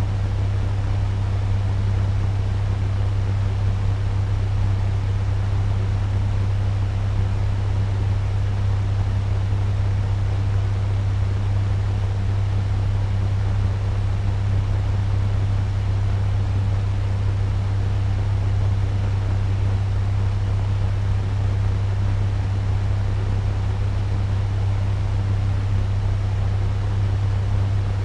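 Turbo fan running steadily at medium speed: an even airy whoosh over a strong low hum.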